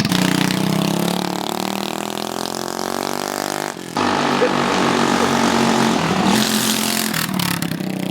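Straight-piped moped engine running with no muffler, steady for a few seconds, cutting out briefly about four seconds in, then running again.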